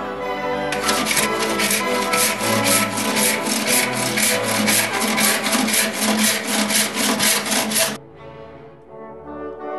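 Rhythmic back-and-forth rubbing strokes on wood, about four a second, starting about a second in and stopping suddenly near the end, over background music.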